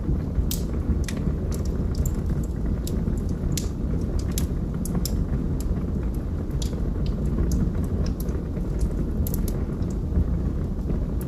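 Log fire burning in a fireplace: a steady low rumble of the flames with irregular sharp crackles and pops from the burning logs.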